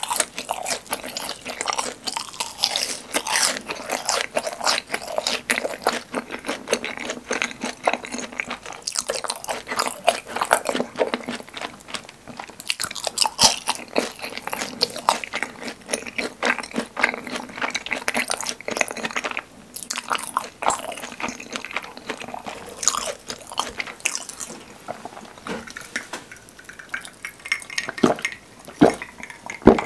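Close-up chewing and crunching of a crisp fried cheese ball dipped in creamy sauce, with many small crisp crackles. Near the end come a few gulps of cola from a glass.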